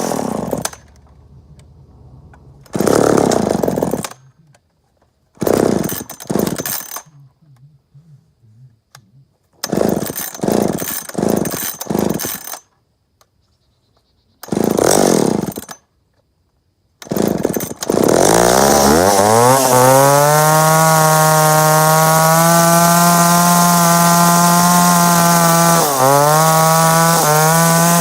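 1971 McCulloch 10-10 Automatic chainsaw, a single-cylinder two-stroke, revving in short bursts separated by near-silent gaps. About two-thirds of the way through it revs up and runs steadily at high speed, with a brief dip in pitch near the end.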